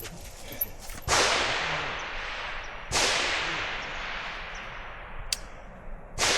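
Three rifle shots, the second about two seconds after the first and the third about three seconds later, each crack echoing away over a couple of seconds. A short sharp tick falls between the second and third shots.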